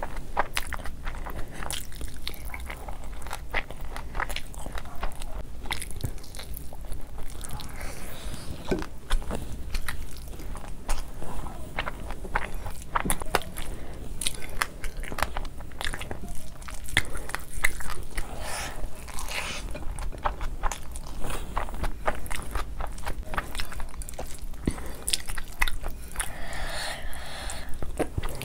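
Close-miked eating sounds of biryani rice being eaten by hand: steady chewing with frequent short, wet mouth clicks and smacks, and a few brief rustles of rice being gathered on a steel plate.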